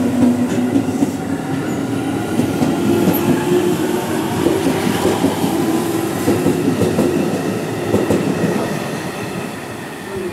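JR Central 211-series and 313-series electric commuter trains passing through the station at speed: a dense clatter of wheels on rail over a steady low drone, fading near the end.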